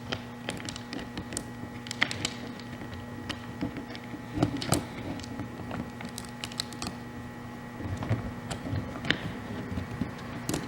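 Light metallic clicks and rattles of a saw chain being handled and fitted around a chainsaw guide bar, irregular, with a few louder knocks, over a steady low hum.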